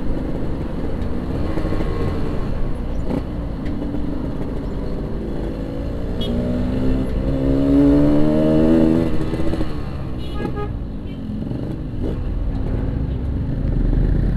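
Yamaha RX-King single-cylinder two-stroke engine on its stock exhaust, running on the move with wind rumble on the microphone. The engine climbs in pitch about six seconds in, then drops back. A brief horn toot sounds around ten seconds in.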